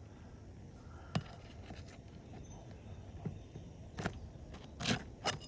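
A few scattered knocks and scrapes from hand work on an asphalt shingle roof during a shingle repair, over a steady low background.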